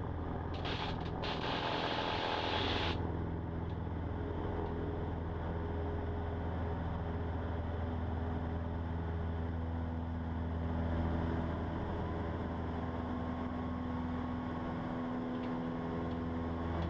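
Cessna 150's four-cylinder Continental O-200 engine running steadily at full power through the takeoff roll and lift-off, heard from inside the cockpit. A burst of hiss comes in about half a second in and stops about three seconds in.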